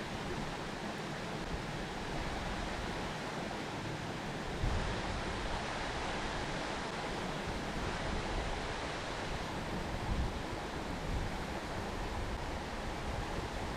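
Steady rushing of a river or stream, with a couple of brief low bumps, about a third of the way in and again about two-thirds in.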